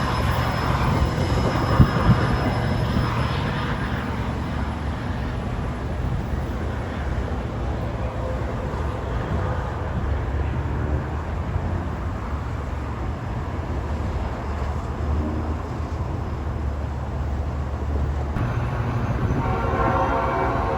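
Diesel commuter train running with a steady low rumble. Its horn sounds at the start and again near the end. Two sharp knocks come about two seconds in.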